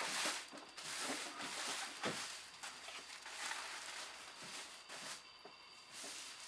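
Thin plastic tablecloth rustling and crinkling in bursts as it is handled and spread over a table, busiest in the first few seconds and softer after.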